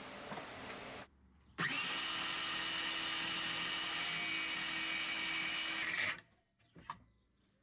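A small electric motor running steadily for about four and a half seconds, starting and stopping abruptly.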